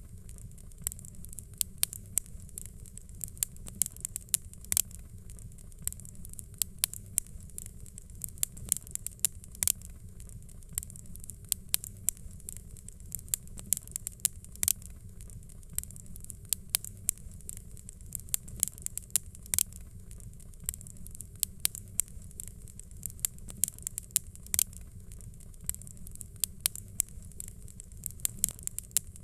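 Fireplace fire crackling: irregular sharp pops and snaps, several a second, over a low steady rumble.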